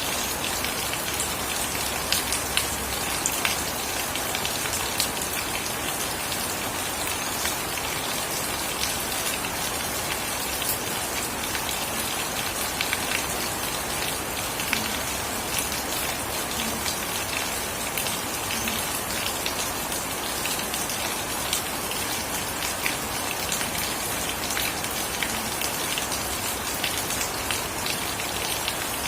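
Steady rain falling, a dense even hiss with many separate drops pattering close by.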